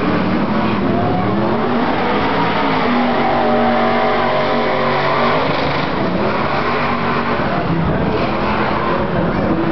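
Trophy truck engine running hard, its note climbing as it revs up and then falling back about five seconds in before picking up again.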